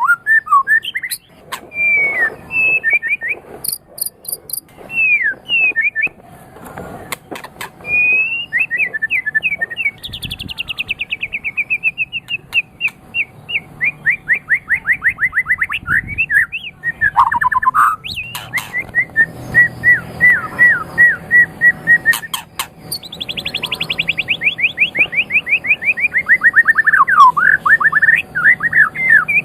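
White-rumped shama (murai batu) singing a long, varied song: short whistled phrases and sharp clicking notes, with fast rattling trills that fall in pitch about ten seconds in and again near the end.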